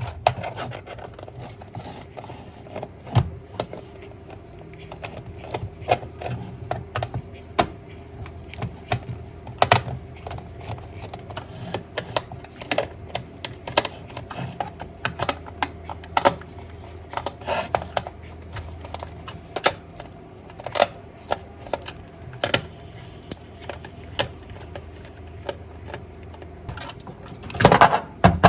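Small plastic parts of a toy car clicking and clacking irregularly as they are handled and taken apart, over a low steady hum, with a louder burst of clatter near the end.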